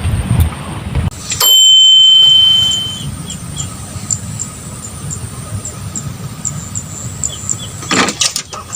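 Fishing reel on a cast: a click, then a loud steady high whine of the spool paying out line that fades after about a second and a half. It is followed by faint, evenly spaced high ticking, a few times a second, and a louder clack near the end.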